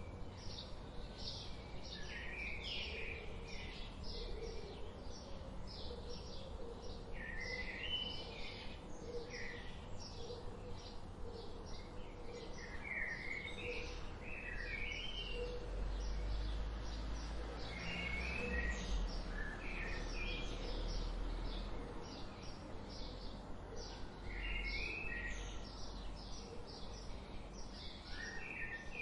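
Several wild birds singing together: a constant stream of quick high chirps, with short warbling phrases that jump up and down in pitch every few seconds. A low rumble rises under the birdsong in the middle.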